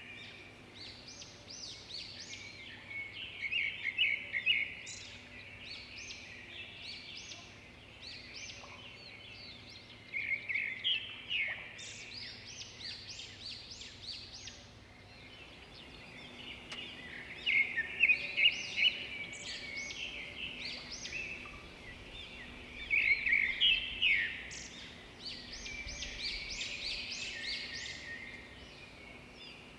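A chorus of small birds chirping and twittering, with the calls coming in busy clusters every few seconds over a faint steady background.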